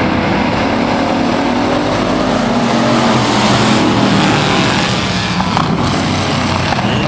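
A pack of Thunder Truck race trucks running on the track, several engines at once, swelling loudest a few seconds in as the field passes.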